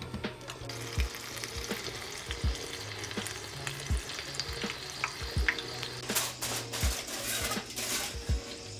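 Hot oil sizzling steadily as food fries in a pan, under background music with a steady low beat about every second and a half.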